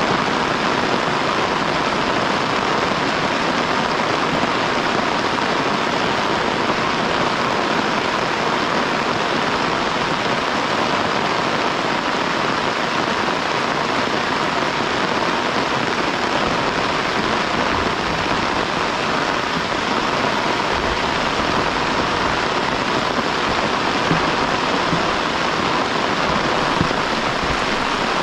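Steady heavy rain falling, an even hiss with a few faint low knocks from drops striking something in the second half.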